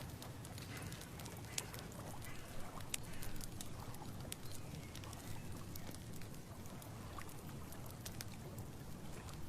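Outdoor nature ambience: a steady low wind rumble with scattered light ticks and rustles, and a few faint short animal calls about two to three seconds in.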